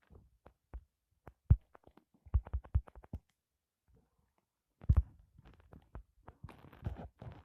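Irregular low thumps and knocks, single ones and quick clusters, with a quiet gap in the middle.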